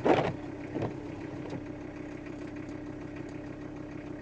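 Steady engine and road drone of a van heard from inside the cab, with a constant hum. A short loud noise comes right at the start, and a smaller one just under a second in.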